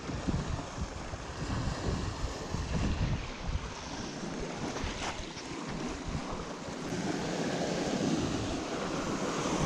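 Wind buffeting the microphone over a steady rushing noise, with low gusts in the first few seconds.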